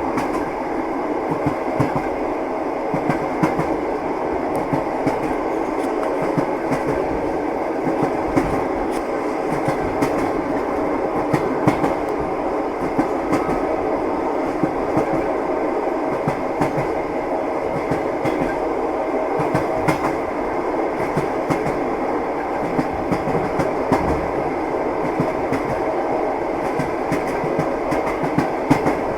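Train wheels clattering over the rails: a steady rolling rumble with frequent, irregular clicks and knocks as the wheels pass the rail joints.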